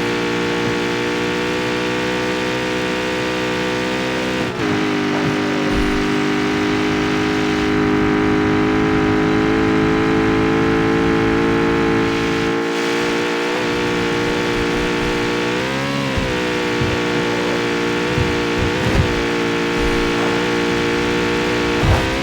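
Jaguar F-Type's supercharged V8 running under way at a steady engine speed. The pitch dips and comes back briefly about four and a half seconds in, and there are a few short blips near the end.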